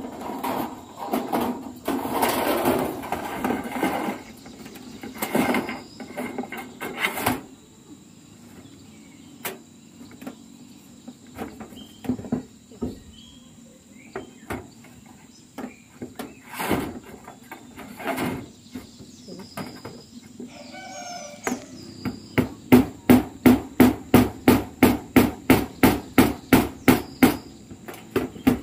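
Hammer driving nails into corrugated zinc roofing sheets: scattered knocks and handling noise, then a fast, even run of strikes, about three a second, over the last six seconds. A steady high insect drone underlies it.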